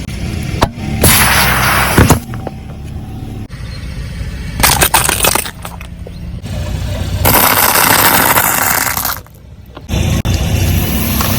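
Car tyres rolling over and crushing objects, with crunching, cracking and breaking in several short clips cut together; sharp cracks come about two seconds in and again near the middle.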